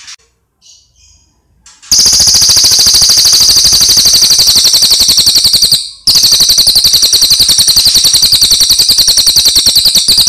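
Cililin bird in full song: a few faint chirps, then about two seconds in a loud, very rapid high-pitched rattling trill that runs on with one brief break in the middle.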